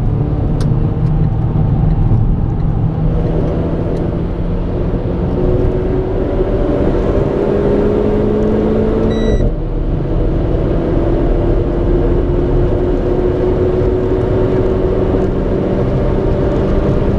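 Onboard sound of a Renault Clio RS 220's turbocharged four-cylinder engine under full acceleration, heard inside the cabin. The engine pitch climbs steadily, drops sharply at an upshift about nine seconds in, then climbs again through the next gear.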